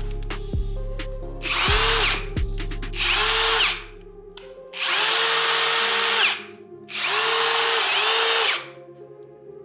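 Parkside Performance PDSSAP 20-Li A1 cordless impact driver run in four short bursts, each spinning up quickly and stopping sharply, the first two shorter than the last two.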